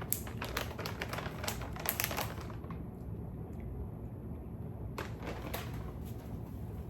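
Crisp clicks and crunches of biting and chewing a frozen chocolate-covered strawberry: a quick run of cracks in the first couple of seconds, then a few more about five seconds in.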